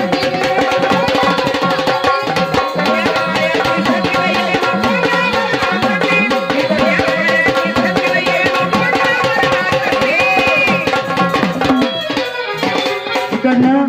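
Gondhal folk music: fast hand-played drumming, likely the troupe's sambal, over a held organ drone, with a low line swinging up and down in pitch. The music breaks off near the end.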